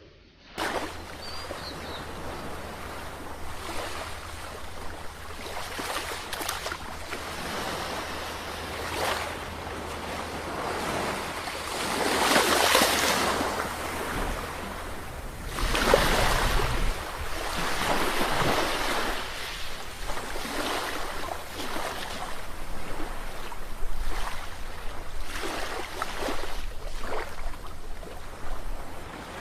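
Sea waves breaking and washing ashore, swelling and ebbing, with louder surges a little before the middle, just past the middle and again about four-fifths through. The sound cuts in abruptly about half a second in, after silence.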